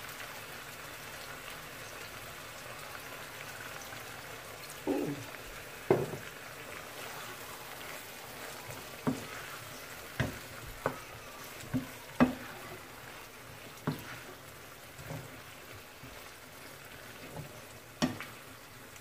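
Ackee and red herring frying in a skillet with a low, steady sizzle, stirred with a wooden spatula that knocks against the pan in a series of sharp taps at irregular intervals from about five seconds in.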